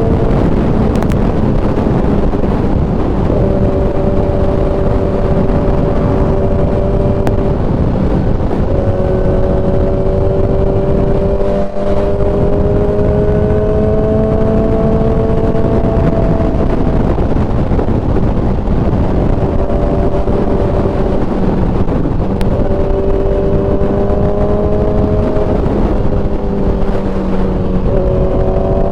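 Kawasaki ZX-10R's inline-four engine running under way, its pitch holding or rising slowly and then dropping to a new pitch several times, as with gear changes, over a loud rushing noise.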